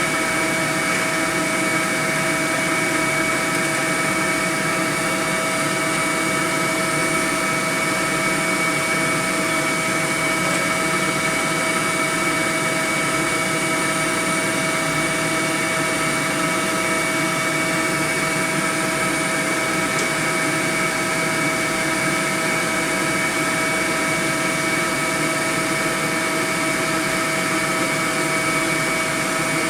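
Honeybee swarm buzzing: a dense, steady hum of many bees with no breaks.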